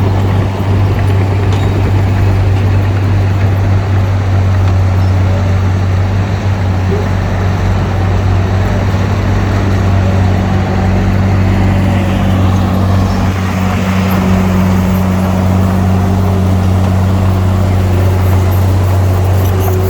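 Heavy diesel engine of earthmoving machinery running steadily with a deep drone; about two-thirds of the way through, a somewhat higher hum strengthens in it as the engine works harder.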